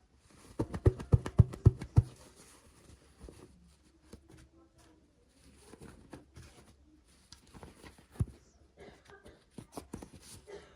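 Hands handling and opening small toy packaging: a quick run of sharp clicks or taps about a second in, then lighter crinkling, rustling and scattered clicks.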